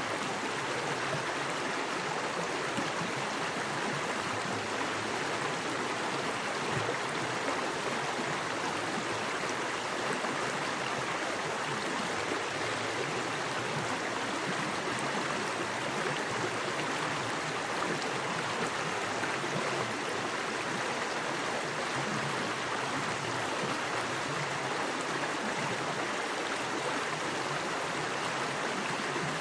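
Small woodland creek with fast water running over rocks: a steady, even rushing.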